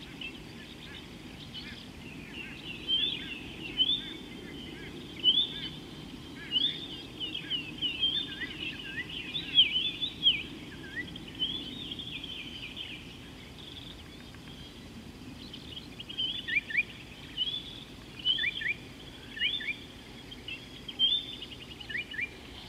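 Birds calling: many short, high chirping notes, a lot of them quick downward slurs. They come in clusters with a lull in the middle, over steady low background noise.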